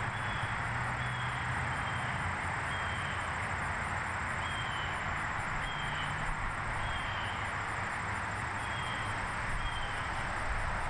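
Outdoor ambience: a steady rushing hiss with a short high chirp repeated about once a second and a fast, even high-pitched ticking throughout, over a low hum.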